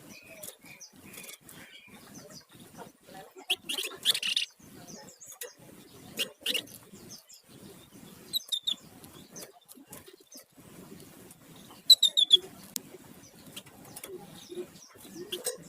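Flamboyan songbird chirping in short, scattered bursts of high notes. The loudest is a quick run of about four notes about twelve seconds in.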